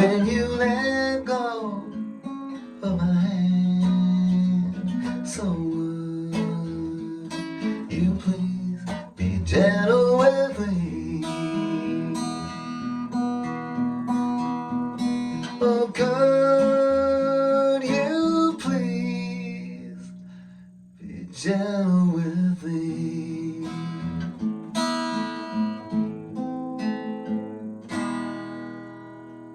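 Acoustic guitar strummed and picked in a song's closing instrumental passage, dying away over the last few seconds.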